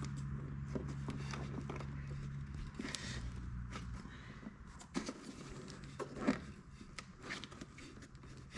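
A steady low mechanical hum that stops about three to four seconds in, followed by a few light clicks and knocks of hand tools on the ATV's metal parts as bolts are worked off.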